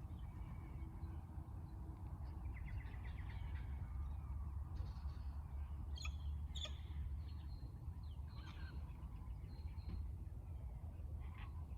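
Several birds calling in scattered short calls, with a few harsh squawks from cockatoos about halfway through, over a steady low rumble.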